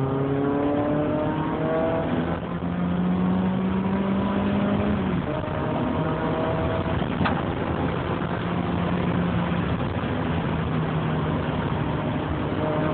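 Car engine pulling hard under a haze of road noise: revs climb, drop at a gear change about two seconds in, climb again, then drop about five seconds in and hold fairly steady.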